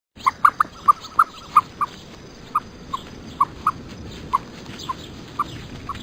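A dog giving short, high yips over and over, quick and close together at first, then more spaced out, over a steady hiss.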